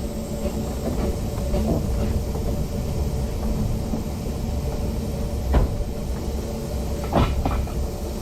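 Narrow-gauge railway train running along the line: a steady low rumble of wheels on track, with a few sharp knocks and clanks, one about halfway through and a couple more near the end.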